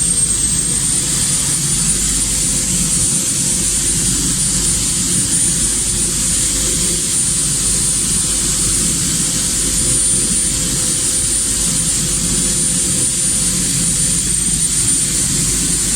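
A workshop machine running steadily: a loud, even rushing noise with a high whine that holds its pitch, dipping slightly near the end.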